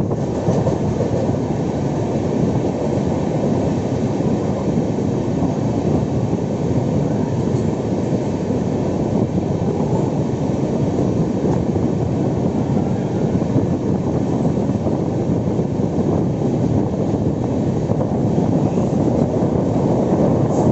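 Moving express train running on the track, a steady rumble from the LHB passenger coach's wheels and bogies, even throughout with no distinct beat.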